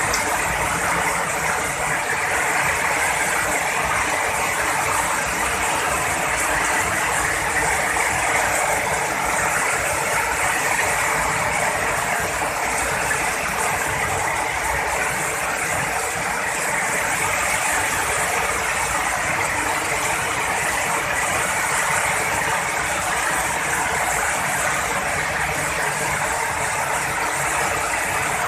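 Heavy rain pouring steadily, an even hiss without thunder claps.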